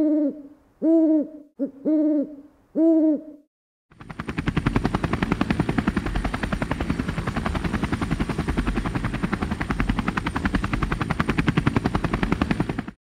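A hooting call repeated about once a second, four times, then after a brief silence a dense, rapid pulsing rumble with a faint high whine that stops suddenly just before the end.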